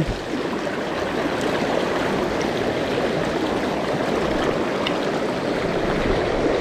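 Steady rush of an upstream mountain river flowing over rocks.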